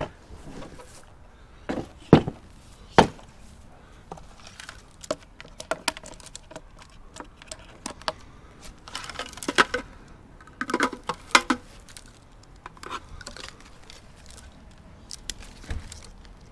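Junk in a kerbside rubbish pile being handled and rummaged through: irregular knocks and clatters, with two loud knocks about two and three seconds in and a run of clinks with a short ring around ten to eleven seconds.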